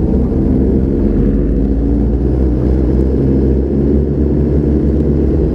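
Motorcycle engine running at a steady pace while riding, with a dense low rumble of engine and road noise.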